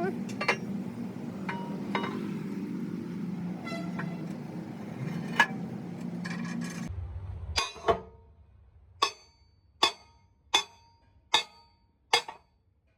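Workshop noise: a steady low machine hum with occasional metal clinks, which cuts off about seven seconds in. Then comes a run of sharp, ringing metal taps, about one a second.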